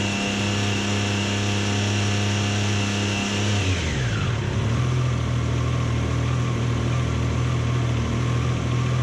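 Motorcycle engine idling steadily. About three and a half seconds in, its speed drops, the pitch sliding down over about a second, and it settles into a lower, steady idle.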